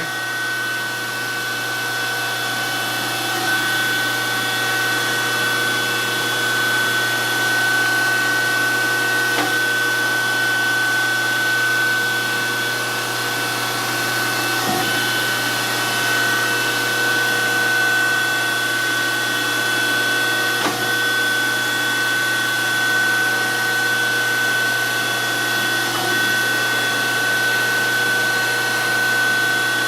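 DoAll 14-inch surface grinder running steadily: a constant high motor and spindle whine over a low hum, with faint knocks about every five to six seconds.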